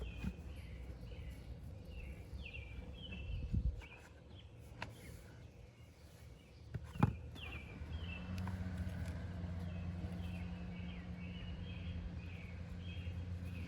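A songbird calling in the background with short, high, down-slurred chirps repeated over and over. Two sharp knocks of handling come through, and about halfway in a steady low hum starts and holds.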